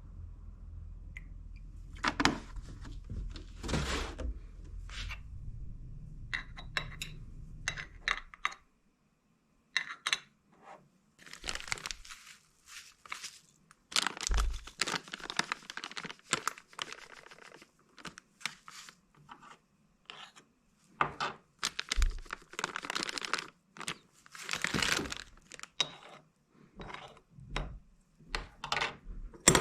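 Irregular rustling, crinkling and tearing of things being handled, with scattered light knocks, over a low hum that stops about eight seconds in.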